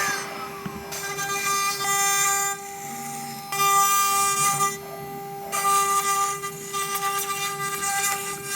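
CNC router spindle running with a steady high whine. Stretches of hissing cutting noise come and go every second or two as the bit moves through the MDF sheet, and the pitch falls near the end.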